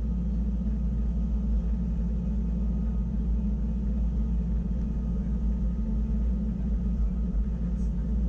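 Wengernalp Railway electric rack train running, heard from aboard: a steady low rumble with a constant hum.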